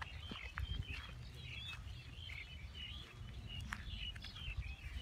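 Birds chirping in short, repeated calls over a low outdoor rumble, with a few faint clicks.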